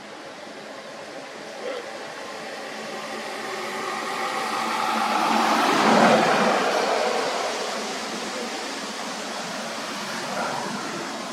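A vehicle passing by, growing louder to a peak about six seconds in and then fading away.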